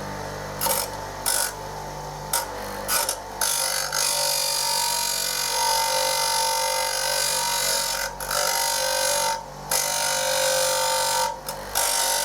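Bench grinder running at full speed, its motor humming steadily, while a steel chisel is pressed against the spinning abrasive wheel to grind down its snapped end. The grinding hiss comes in a few short touches at first, then in long passes broken by brief lifts of the blade.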